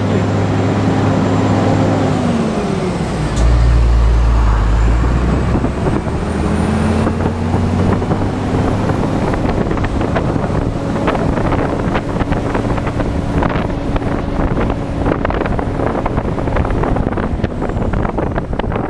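Scania R420 truck's inline-six diesel engine running under load on a climb. Its pitch falls about two seconds in, a deep rumble follows for a second or two, then it settles to a steady pull, with irregular clicks and knocks over the second half.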